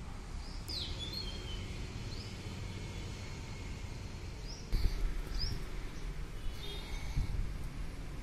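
Birds chirping in short, scattered calls over a steady low rumble of background noise, which gets louder suddenly a little past halfway.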